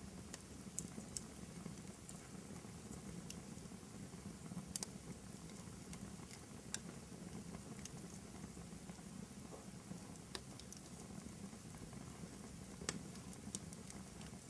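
Wood fire burning in a fireplace: a faint, steady low rumble of flames with scattered sharp crackles and pops, the loudest pop near the end.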